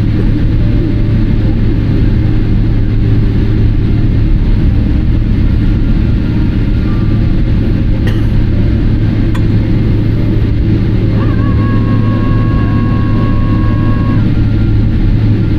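Steady rumble of a Boeing 777-300ER's GE90 engines and airframe heard from inside the cabin as the airliner slows after landing. A steady high two-note tone sounds for about three seconds near the end.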